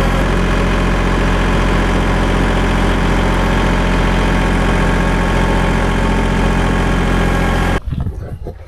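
Gas engine of a portable bandsaw sawmill running steadily at a constant speed. The sound cuts off abruptly near the end.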